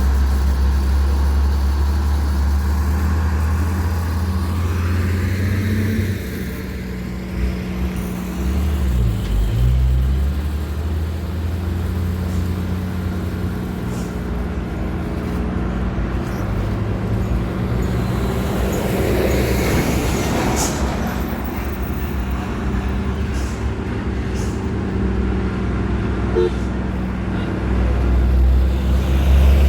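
Heavy diesel truck engines running with a steady low drone, with a rushing swell of noise about two-thirds of the way through as a vehicle passes. An engine grows louder near the end.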